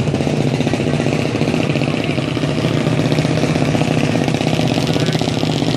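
A vehicle's engine idling steadily, with a fast, even exhaust pulse.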